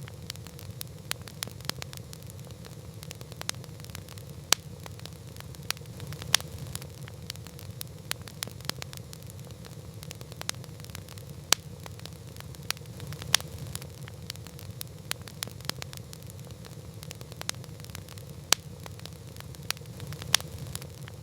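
Campfire burning with a steady low rumble and irregular crackles and pops of burning wood, a few of them sharply louder.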